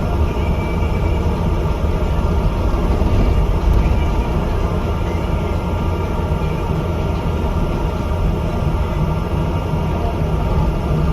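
Bus in motion: a steady diesel engine drone with low road rumble and a few faint steady whining tones.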